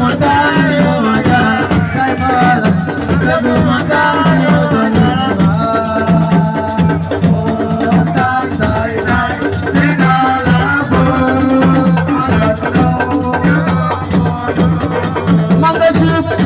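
Assiko band music: a steady, repeating percussion beat with shaken rattles and a melodic line over it.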